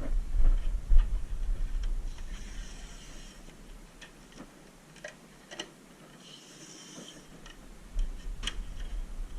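Scattered clicks and knocks of hand-tool work, with a couple of short, faint hissing sprays in the middle and a low rumble at the start and again near the end.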